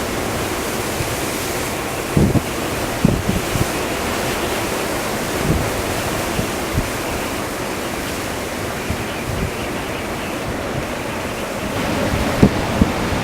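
Blizzard wind blowing hard and steadily, with gusts buffeting the microphone in brief low thumps several times, the sharpest pair near the end.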